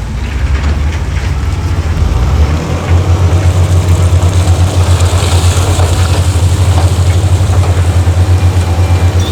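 Heavy diesel engine of earthmoving equipment running with a low, evenly pulsing throb that grows louder about three seconds in.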